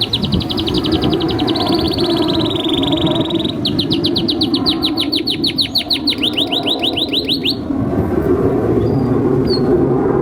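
Domestic canary singing long, fast trills of repeated high notes, about seven a second: one trill, a brief break about three and a half seconds in, then a second trill that stops about seven and a half seconds in. A steady low background noise runs under the song.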